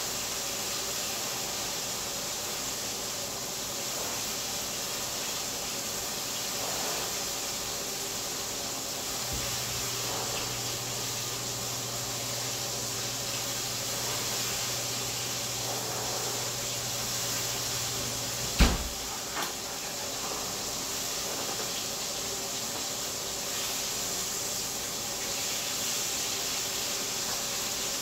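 Chicken breasts frying in hot oil in a pan, giving a steady sizzle. Partway through, a low hum runs for about nine seconds and stops with a sharp knock, followed by a smaller knock a moment later.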